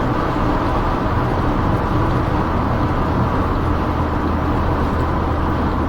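Steady engine drone and road noise of a Smart car driving along.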